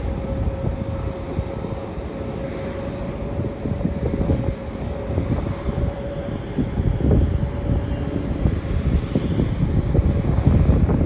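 Jet airliner engines running at an airport, a steady hum under a heavy low rumble that swells twice, with wind buffeting the microphone.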